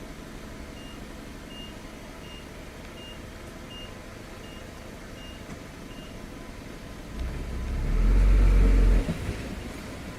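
Dump truck reversing alarm: eight short high beeps, a bit more than one a second, over a low running engine. About seven seconds in a loud low rumble builds and cuts off after about two seconds.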